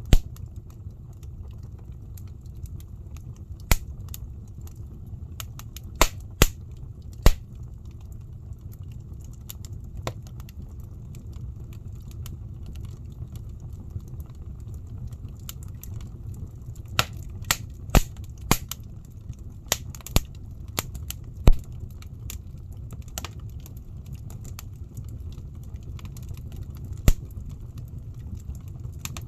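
Wood burning in a fireplace: a steady low rumble of the fire with sharp, irregular crackles and pops from the burning logs, bunched in a few spells.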